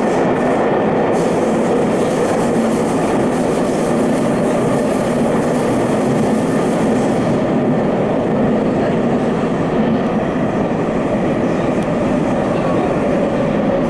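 Subway train running through a tunnel, heard from inside the rear car: a steady rumble of wheels on rail and traction motors.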